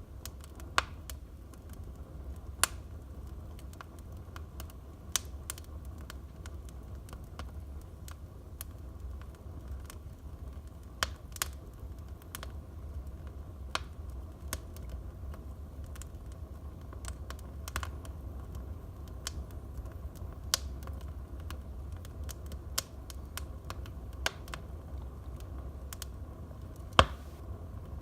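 Wood fire in a fireplace crackling: sharp pops at uneven intervals over a low steady rumble, with one louder pop near the end.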